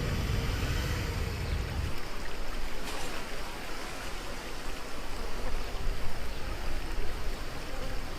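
Rushing, splashing water of a river-rapids raft ride, a steady even wash. A heavy low rumble underneath drops away about two seconds in.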